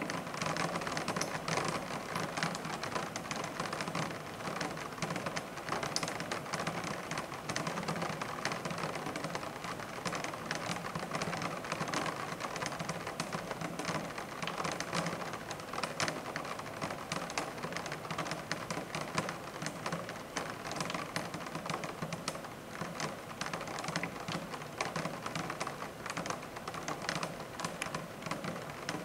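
Rain falling on window blinds: a dense, irregular patter of drops clicking against the slats over a steady rain hiss.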